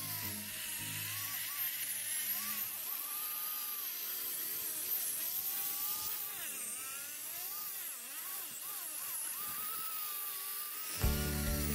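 Angle grinder with a wire cup brush scouring rust off a cast-iron base, its motor whine wavering up and down in pitch as the brush is pressed on and eased off.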